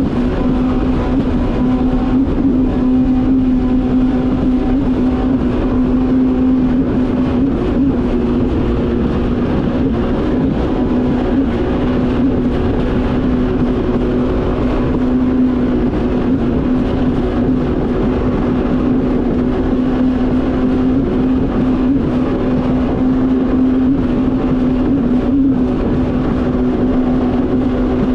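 Yamaha VX Cruiser H.O. WaveRunner jet ski engine running at a steady high speed, with an unchanging engine tone over the rush of water and wind.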